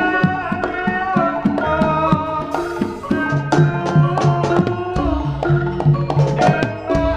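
Javanese jaranan ensemble music: kendang hand drums playing a quick rhythm over ringing gamelan metallophone tones.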